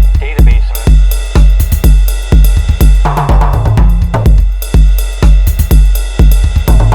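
Electronic drum-machine beat: a deep booming kick about twice a second with hi-hats, snare and cymbal hits over it. A low pitched synth part comes in about three seconds in.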